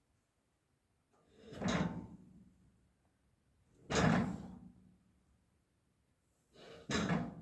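Three heavy thumps, each a few seconds apart, the kind made by a heavy blow or a heavy object being set down hard.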